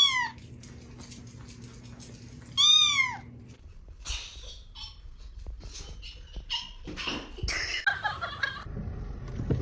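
A domestic cat meowing twice, about two and a half seconds apart, each call rising and then falling in pitch. After the calls, a few seconds of scattered knocks and rustling.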